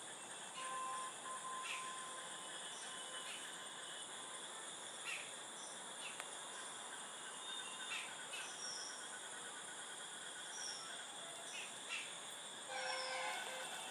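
Insects shrilling steadily in several high, unchanging tones, with a few short bird chirps scattered through.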